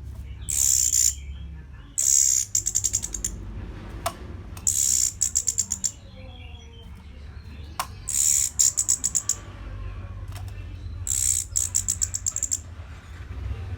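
Orange-headed thrush singing short, high phrases, each a note followed by a rapid rattling trill. Five phrases come a few seconds apart over a low steady hum.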